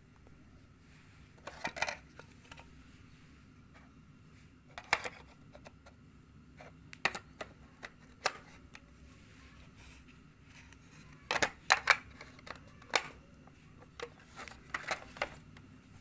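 Scattered clicks and light knocks from a small portable radio and small tools being handled during a repair. They come singly and in quick clusters, loudest around five seconds in and again past the middle, over a faint steady hum.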